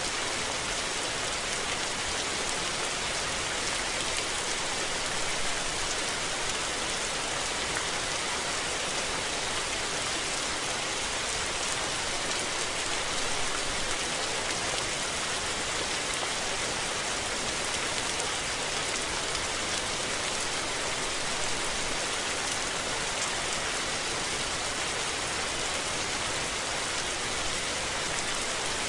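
Steady rain falling, an even hiss of drops with faint scattered ticks and no thunder.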